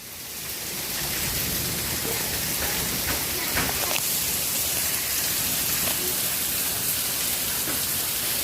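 Heavy rain pouring down in a thunderstorm, a steady dense hiss that grows louder over the first second and then holds.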